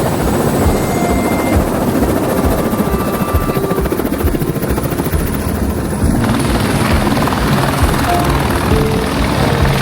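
Helicopter running, a loud, steady rush of rotor and engine noise with a fast pulsing from the blades.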